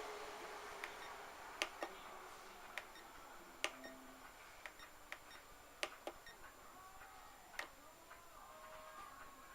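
Scattered sharp clicks and ticks at irregular intervals, over a faint hiss that fades during the first few seconds.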